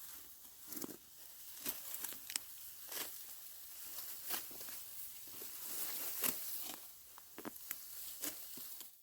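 Irregular dry rustling and crackling with scattered sharp clicks, a few each second.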